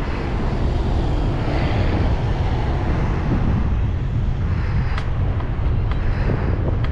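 Steady wind rumble buffeting the microphone while riding a bicycle at speed, with two light clicks, one about five seconds in and one near the end.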